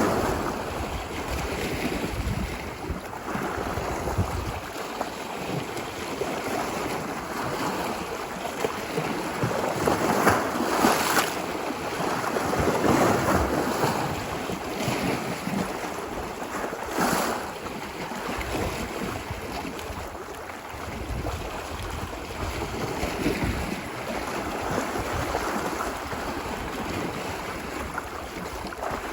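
Ocean waves washing ashore on a beach, a steady rushing surf that swells and eases. The louder surges come about ten, thirteen and seventeen seconds in. Wind rumbles on the microphone.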